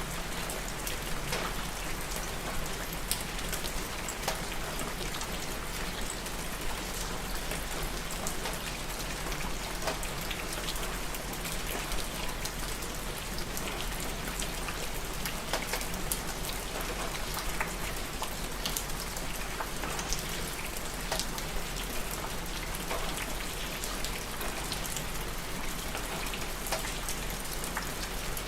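Steady rainfall, with a constant hiss and many individual drops ticking on a surface.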